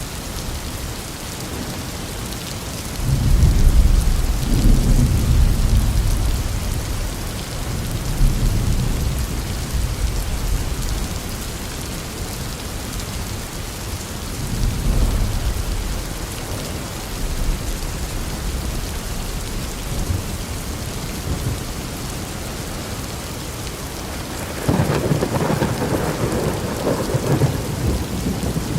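Thunderstorm: steady rain with thunder. A long low rumble starts about three seconds in and is the loudest part, fainter rumbles follow, and a sharper, brighter peal comes near the end.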